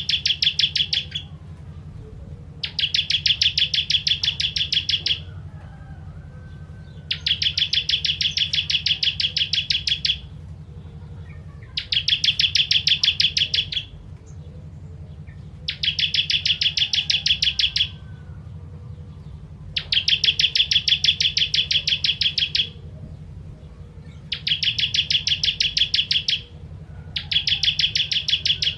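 Ciblek kristal, a prinia, singing a fast trill of rapidly repeated high notes in bursts of two to three seconds, about seven in a row, with short pauses between. A steady low hum runs underneath.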